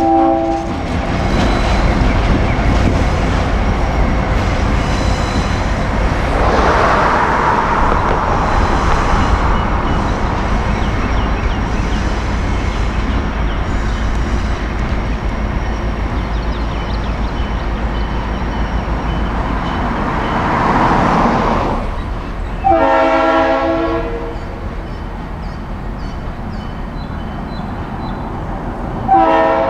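A diesel train runs with a steady low rumble. The locomotive's air horn sounds a short, several-note blast about three-quarters of the way through, and another begins near the end.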